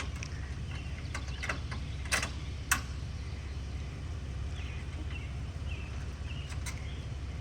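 A few sharp metal clinks, the loudest two a little over two seconds in, over a steady low rumble: a trailer hitch and chains being hooked up to a Jeep. Faint bird chirps come in later.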